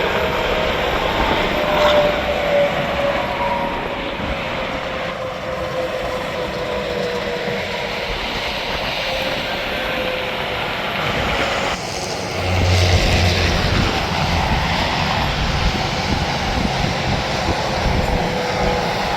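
Highway traffic passing steadily, with the constant hiss of tyres and a slowly falling whine. About two-thirds of the way through, a louder, deeper engine hum comes in as a heavy truck passes.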